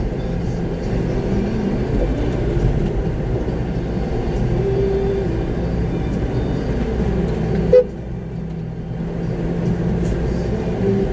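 Concrete mixer truck's diesel engine running, heard from inside the cab, its pitch shifting a little as it moves. A brief sharp sound stands out about eight seconds in.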